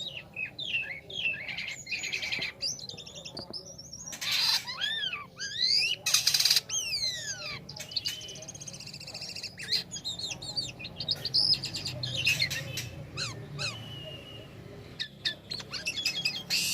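A jalak kapas starling singing a busy, varied song of whistles that glide up and down, broken by a couple of harsh, scratchy notes.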